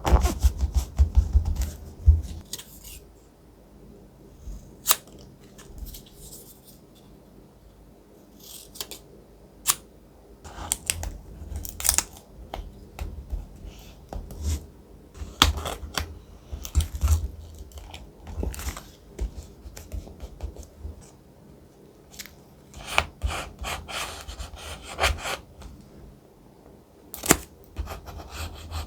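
Scissors snipping through thick paper, with the paper crackling and rustling as it is handled, and occasional soft knocks on the work surface.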